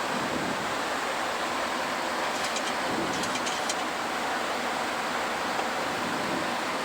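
Steady rush of airflow and engine noise on the flight deck of a Boeing 737-700 climbing after takeoff. A few faint, light clicks come about two and a half to three and a half seconds in.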